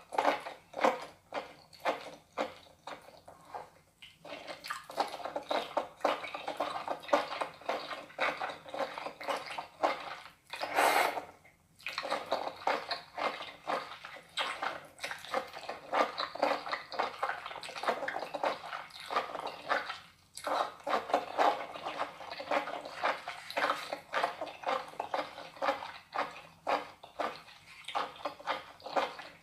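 Close-miked wet chewing and mouth sounds of raw baby octopus being eaten: rapid sticky smacking clicks throughout, with a brief louder wet sucking burst about eleven seconds in.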